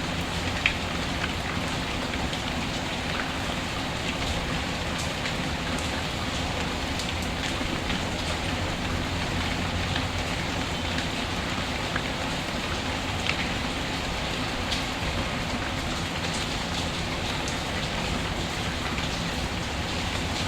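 Steady rain falling, an even hiss, with now and then a short sharp crackle from a wood fire.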